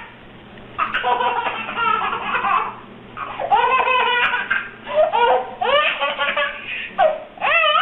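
A young child laughing in a series of high-pitched bursts, several in a row with short breaks between.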